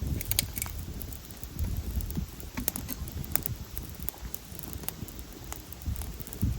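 Wood campfire crackling: irregular sharp pops and clicks over an uneven low rumble.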